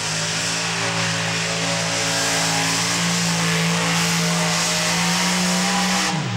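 Modified pulling tractor's engines at full throttle during a pull, the pitch climbing slightly. Just before the end the throttle is cut and the engine note falls away suddenly, marking the end of the run.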